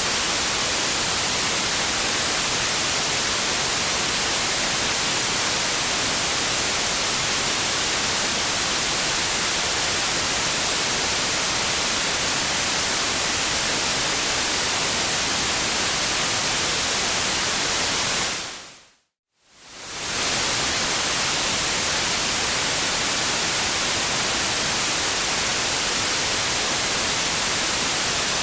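Steady white noise, an even hiss with no tone or rhythm in it. About 18 seconds in it fades out to a moment of silence and fades straight back in, like the seam of a loop.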